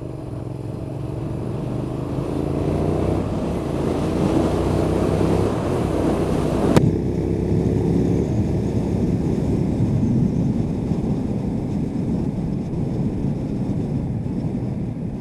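Suzuki SV650's V-twin engine pulling under acceleration, its note rising over the first few seconds and then holding steady, under heavy wind rush. A single sharp click about seven seconds in.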